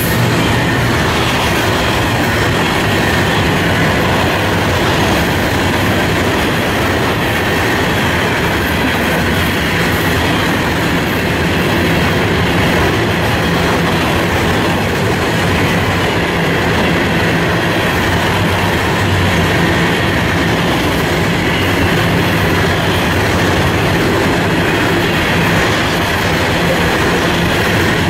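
Freight train's open-top cars rolling past close by: a loud, steady rumble of steel wheels on rail, with a faint high whine held throughout.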